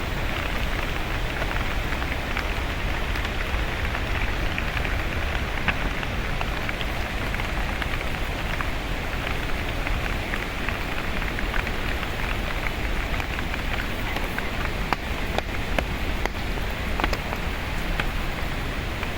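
Steady monsoon rain falling, with many small sharp drop ticks over a constant hiss and a low rumble.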